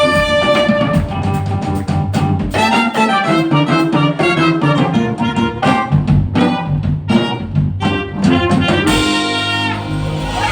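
Jazz band playing, with saxophone and brass lines over a drum kit.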